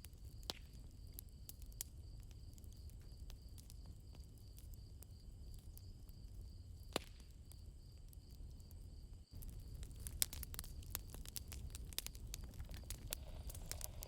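Campfire crackling with scattered sharp pops over a low steady rumble, the pops coming thicker in the second half. Soft crickets chirp as a faint high steady trill underneath.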